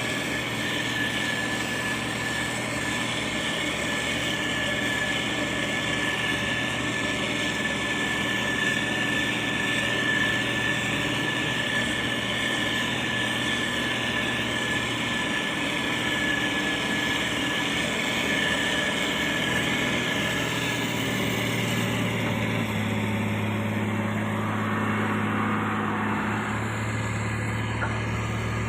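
Heavy diesel engine of road-construction machinery running steadily, with a steady high whine. About three-quarters of the way through, the whine fades and the engine note deepens and strengthens.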